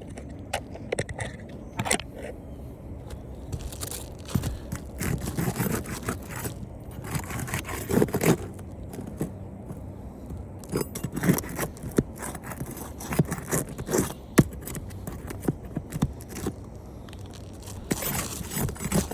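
A metal roof snake scraping and prying under roof shingles to lift them off their nails: irregular scrapes with sharp metallic clicks and knocks, and the shingles tearing as they are lifted.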